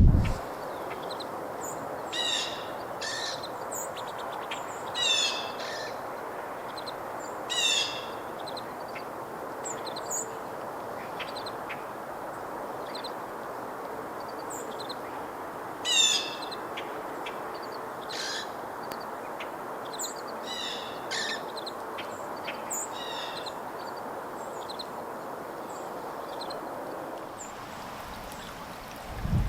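Small songbirds singing and chirping: short, bright, descending phrases repeated every few seconds over a steady background hiss.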